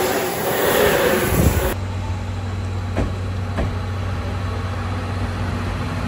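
Train sound in two takes: a broad rushing noise for the first second and a half or so, then an abrupt change to a steady low electric hum with a few faint clicks.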